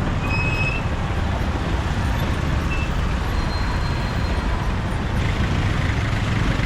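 Motorbike riding in city traffic: a steady engine and road rumble, heavy in the low end, with a few brief faint high tones in the first few seconds.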